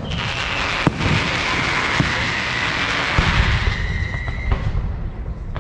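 Aerial fireworks going off: a continuous dense crackle with sharp bangs about a second and two seconds in and another near the end, and a steady whistle rising out of the crackle toward the end.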